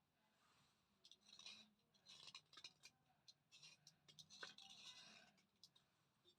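Faint, irregular crackling and scraping of a thick Chandni slate pencil, in short clusters with brief gaps.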